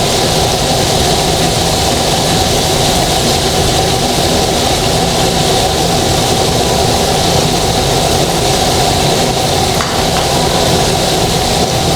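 Flour-coated chicken breast pieces deep-frying in hot oil, a loud, steady sizzle with a low hum underneath.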